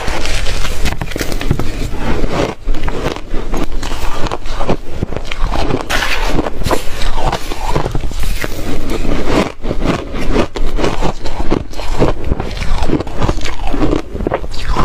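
Ice being chewed close to the microphone: a dense, irregular run of loud crunches and cracks.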